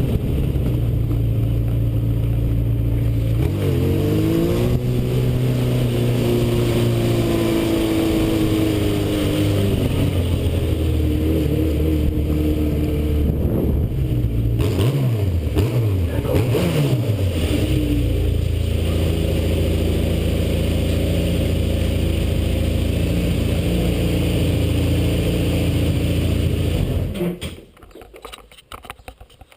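Yamaha Seca II's inline-four engine running under way, picked up by a helmet-mounted camera. Its pitch climbs and drops several times around the middle, then holds steady, and the sound cuts off sharply near the end.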